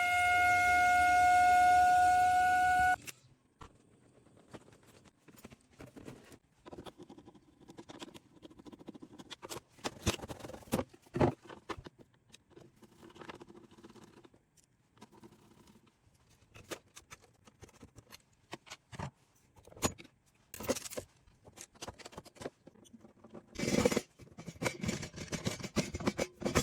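Ideal Logic combi boiler giving a loud, steady whistle that cuts off suddenly about three seconds in. After it come scattered clicks, taps and scrapes of hand work on the boiler.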